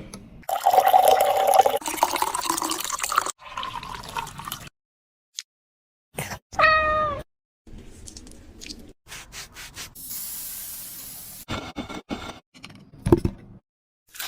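A cat meowing, with one clear short meow about seven seconds in, amid scattered kitchen clicks and knocks and a brief steady hiss.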